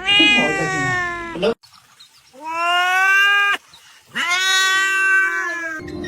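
A domestic cat giving three long, drawn-out meows with short pauses between them.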